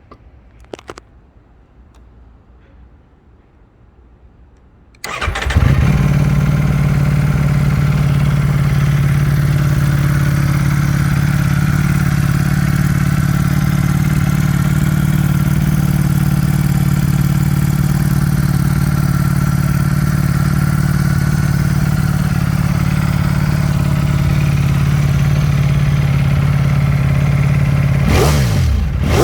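Ducati Panigale V4 S V4 engine through an Akrapovič titanium exhaust. After a few quiet seconds with a couple of clicks, it starts about five seconds in and idles steadily, then is revved in quick blips near the end.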